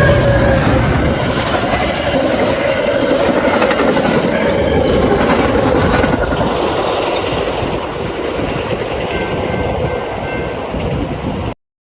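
Train rolling past close by, its cars' wheels clattering steadily over the rail joints with a few thin tones above the rumble. The sound eases slightly, then cuts off abruptly near the end.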